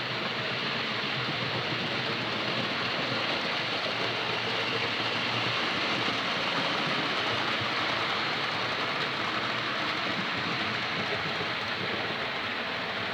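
Model locomotive running along the layout's track, a steady rolling rush of motor and wheels on rail that swells a little midway and eases near the end.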